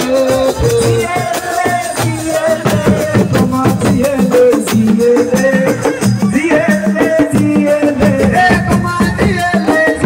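Assiko band music: a voice sings over dense, fast hand-drum percussion and shaken rattles.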